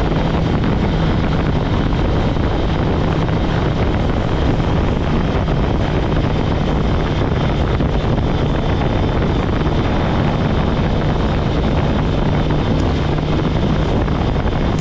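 Kawasaki ZX-10R's inline-four engine running at a steady pitch while cruising, with wind rushing over the microphone.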